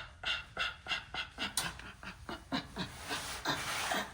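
A person panting: quick, breathy breaths at about three a second, with a few short voiced sounds midway and a steadier hiss near the end.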